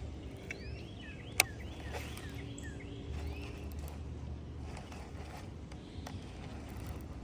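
Birds calling in short chirps that sweep up and down in pitch, over a steady low rumble, with one sharp click about a second and a half in.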